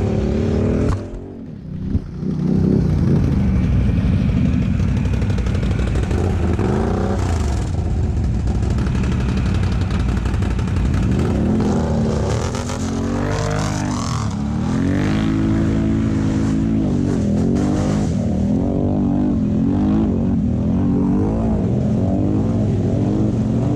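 ATV engine running under load, revving up and easing off again and again as the machine is ridden, with a brief drop in sound about a second in.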